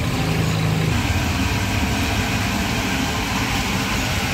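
Steady roar of a gas wok burner with hot oil frying fish cake, a low hum running under a constant sizzle.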